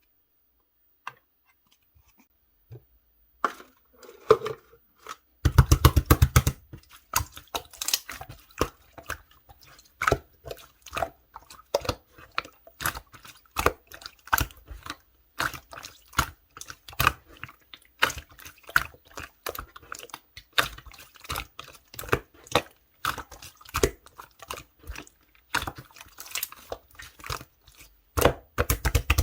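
Hands kneading and stretching clear slime: a steady stream of irregular sticky pops and clicks, with a fast rattle of pops about five and a half seconds in. Near silence for the first few seconds.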